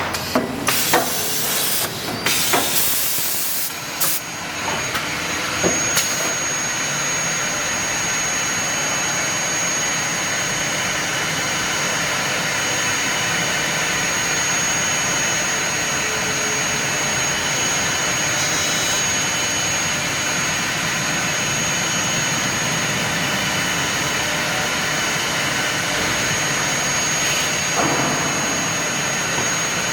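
Leabon SG 612J six-sided CNC drilling machine running: a few sharp knocks in the first six seconds, then a steady, even noise with a thin high whine held throughout.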